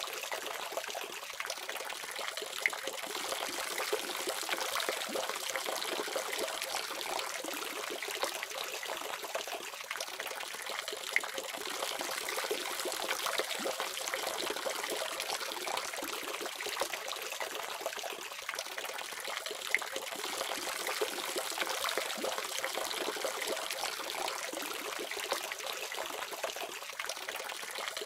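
Water running steadily from a faucet, a continuous splashing stream with small droplet spikes and little deep sound.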